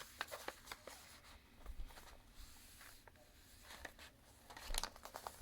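A sheet of paper being folded and creased by hand: faint scattered rustles and light ticks, with a short louder run of crisp paper sounds near the end.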